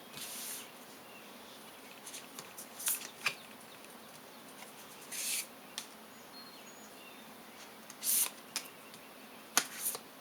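Tarot or oracle cards being handled and drawn: scattered brief swishes and sharp taps, about a half-dozen over several seconds, the loudest swish near the end.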